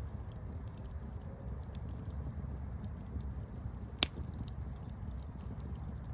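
Campfire burning with a steady low rumble and scattered small crackles, and one sharp loud pop about four seconds in.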